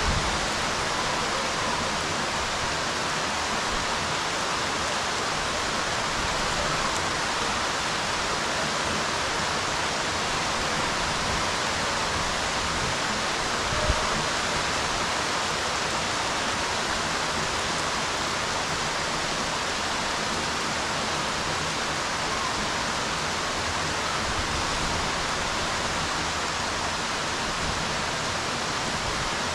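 Steady rain falling on a swimming pool's water surface, an even, unbroken hiss of drops, with one brief thump about halfway through.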